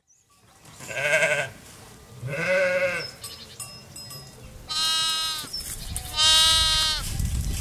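Sheep bleating four times: two lower bleats, then two higher-pitched ones. A low rumble comes in near the end.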